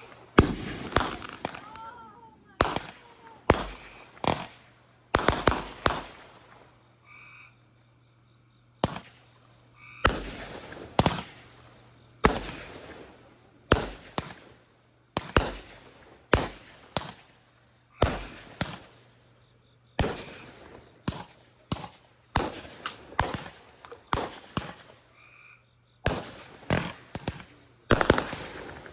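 Consumer fireworks going off in quick succession: dozens of sharp bangs, each trailing off, about one or two a second, with a lull of a couple of seconds about a quarter of the way in.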